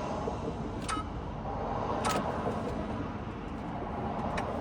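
Steady low rumble of a running vehicle, with three short light clicks about a second, two seconds and four seconds in.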